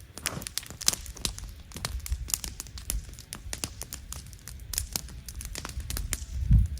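Campfire crackling: wood burning with dense, irregular sharp pops and snaps over a low rumble. A dull low thump comes near the end.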